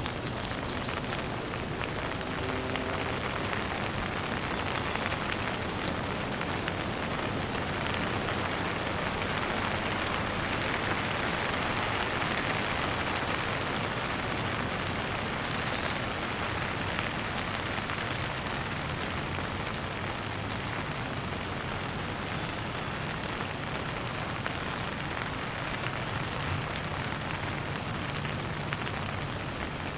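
Steady rain falling, an even hiss of drops on surfaces, with a brief rapid high bird chirping about halfway through.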